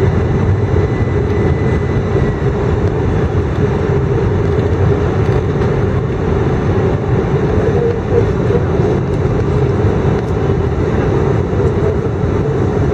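Steady cabin noise of an Airbus A319 airliner on approach: jet engine and airflow noise, strongest low down, with a faint high tone that fades out about two seconds in.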